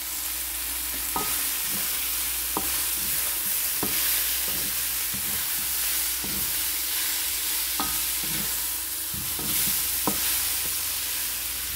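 Chicken drumsticks, onions and garlic sizzling as they fry in a hot metal wok, stirred with a wooden spatula that knocks against the pan every second or two.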